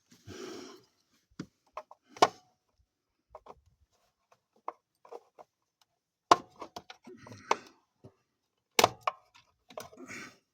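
Scattered sharp knocks and clicks of hands and tools working on the truck's radiator connections, with four louder strikes and soft rustling between them.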